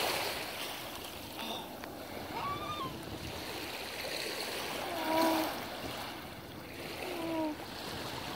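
Steady wash of water at the shore, with three short pitched calls about two to three seconds apart.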